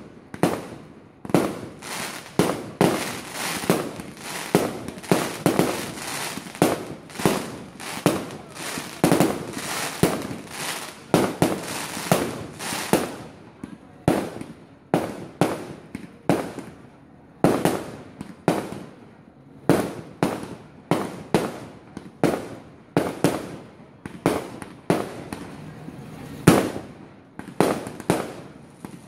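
Fireworks going off in quick succession: a long run of sharp bangs, about one to two a second, each with a short echoing tail.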